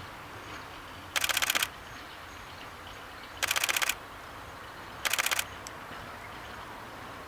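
A camera shutter firing in continuous shooting, three short bursts of rapid clicks about half a second each, roughly a second and a half to two seconds apart.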